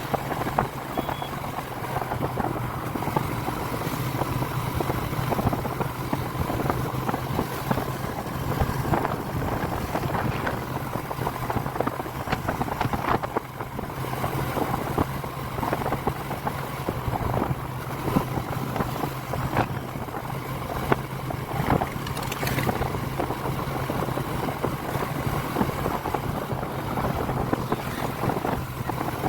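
Motorcycle engine running at a steady, unchanging pitch while being ridden, with wind rushing over the microphone.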